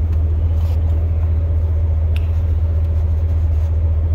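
Steady low rumble of an idling pickup truck, with a faint steady hum above it and a couple of faint ticks.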